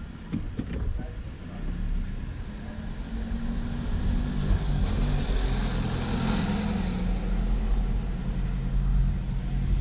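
Car engine running with tyre and road noise while driving. The engine note shifts in the middle and settles lower in the second half.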